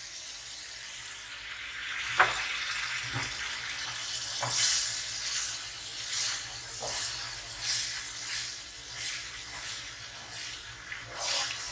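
Tomato purée sizzling in hot oil with fried onions and spices in a non-stick wok while a spatula stirs it, in a steady rhythm of strokes a little faster than one a second from about four seconds in. A few sharper scrapes of the spatula against the pan stand out.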